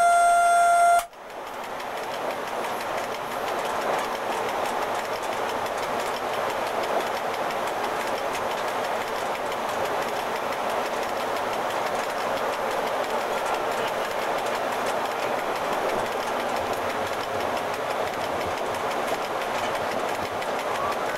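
Horn of an FS E.656 electric locomotive held on one steady note, cutting off abruptly about a second in. It is followed by the steady running noise of the train heard from the driver's cab, wheels running on the rails.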